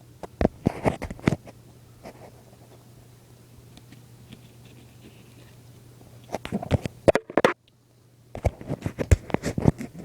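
A cardboard shipping box being opened by hand: three bursts of scratching and crackling from tape, cardboard and packing material.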